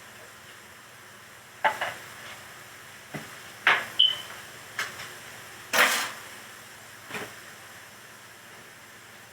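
A handful of short, sharp knocks and clatters, about six, spread unevenly, the loudest pair about four seconds in, followed right away by a brief high tone.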